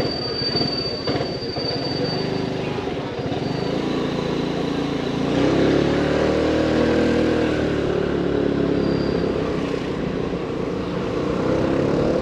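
Motorbike engine running on the move, its pitch rising and falling with the throttle and louder in the second half, over a steady rush of road noise. A thin high whine sounds in the first two seconds and briefly again later.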